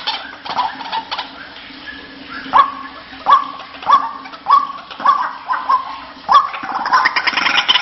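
White-breasted waterhen call used as a lure: a faint rapid chatter fades, then from about two and a half seconds come seven loud, short notes, each rising sharply, about two-thirds of a second apart. A faint steady hum runs underneath.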